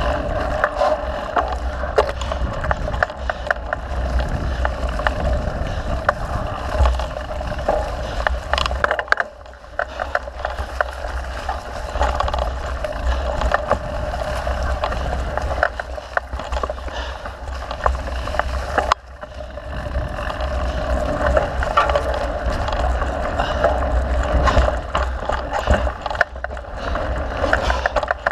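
Mountain bike riding a dirt trail: tyres rolling, with the bike rattling and clicking over bumps over a steady low rumble. The noise drops briefly twice, about a third and about two thirds of the way through.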